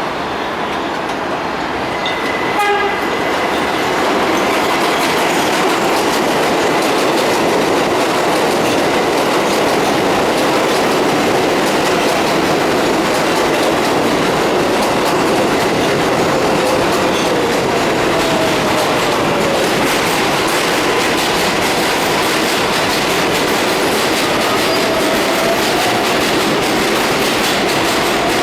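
An R188 subway train running on the elevated IRT Flushing Line, loud and steady, with wheels clattering over the rail joints. It grows louder in the first few seconds and carries a short high tone about two seconds in. Faint tones slide in pitch later on.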